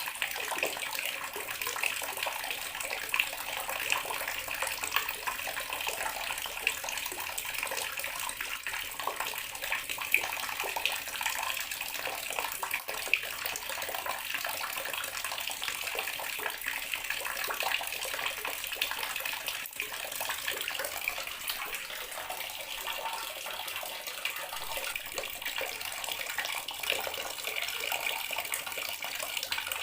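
Bathroom water tap running steadily, its stream splashing into the basin or tub below.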